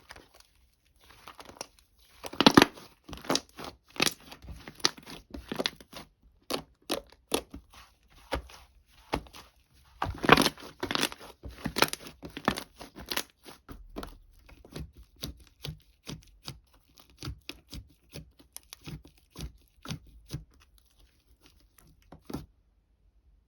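Irregular crisp crackling and crinkling, as of something papery or plastic being crumpled and torn, with louder bursts about two and a half and ten seconds in; it stops shortly before the end.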